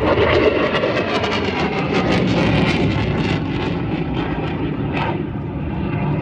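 Jet aircraft flying past low, its engines running loud and steady, with a whine that slowly falls in pitch.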